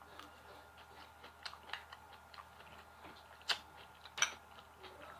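A person chewing food close to the microphone, soft wet mouth clicks with two sharper crunches about three and a half and four seconds in.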